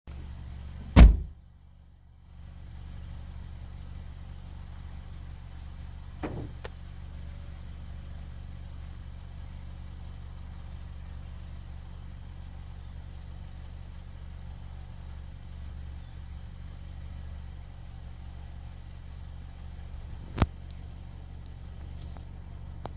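Steady low hum of an idling vehicle engine. A loud knock comes about a second in, and a few faint clicks follow later.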